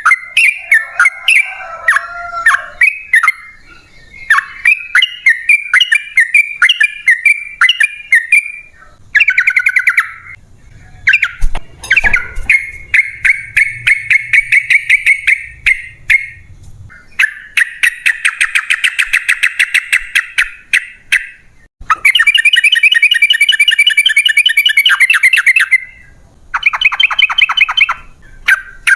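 Yellow-vented bulbul (trucukan) singing: a few seconds of quick chattering notes, then long, very rapid trilled runs (the 'ropel panjang' song) repeated in stretches of several seconds with short breaks between them.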